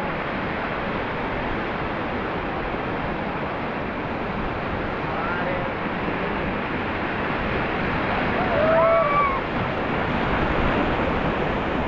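Steady rushing of river water around a raft on the rapids, with wind on the microphone.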